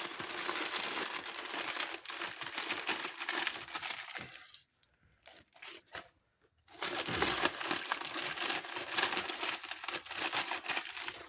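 Packaging crinkling and rustling as it is unwrapped by hand, in two spells with a short pause and a few clicks about halfway through.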